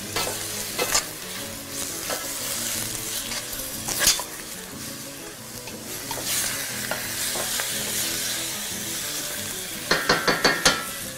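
Baby cuttlefish sizzling in hot oil in a stainless-steel pot, stirred with a wooden spoon that scrapes and knocks against the pot now and then. There is a quick run of sharp knocks near the end.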